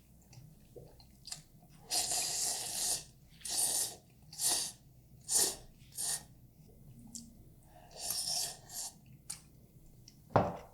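Instant noodles being slurped in a series of short hissing slurps, one long slurp about two seconds in and then roughly one a second.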